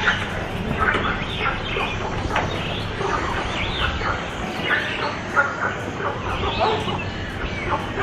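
Many birds calling at once, a busy chorus of short, overlapping calls.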